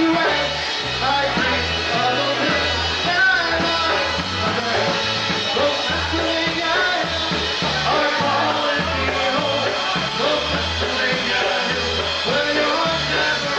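Live polka band playing a polka over a steady, regular bass beat.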